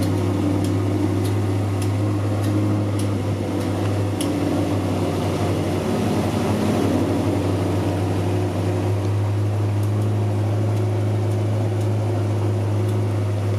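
Pontiac G8 GT's 6.0-litre V8 idling steadily, a constant low hum.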